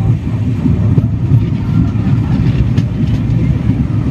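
Moving express train's passenger coach running along the track: a loud, steady low rumble with a few faint clicks.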